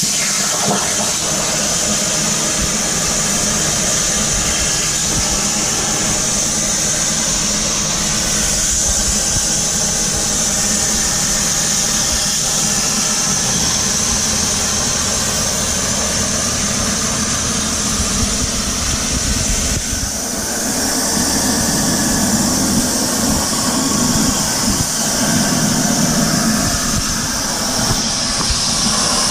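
CNC plasma cutter torch cutting steel plate: a loud, steady hiss with a high band of noise and a low hum underneath, the low part growing stronger about two-thirds of the way through.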